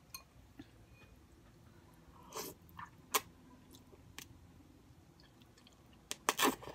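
A person chewing and eating noodles close to the microphone, with small mouth sounds and a few sharp clicks, and a quick run of louder mouth sounds near the end.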